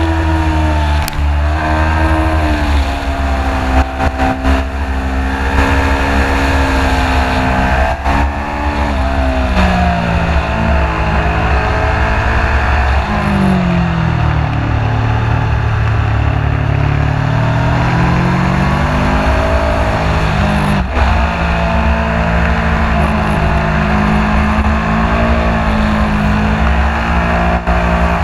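Aprilia sport bike's engine at full track pace, heard from the onboard camera: the pitch climbs and drops sharply again and again through gear changes, sinks low about halfway through as the bike slows for a bend, then winds back up as it accelerates. A heavy wind rumble on the microphone runs underneath.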